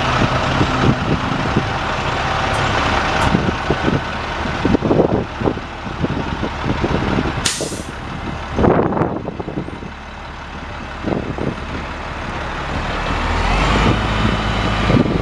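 International DT466 straight-six diesel in a 2002 International 4900 dump truck running, with a short sharp burst of air hiss about halfway through and scattered knocks. Near the end the engine grows louder and rises in pitch as it is revved or pulls away.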